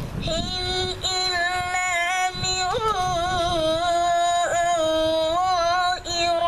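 A boy reciting the Quran in melodic tajweed style, drawing out a long ornamented vowel with wavering turns of pitch, with a brief break for breath near the end.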